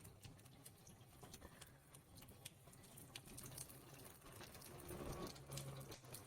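Faint, irregular ticking of small raindrops dripping and falling. A brief low hum rises under the drips near the end.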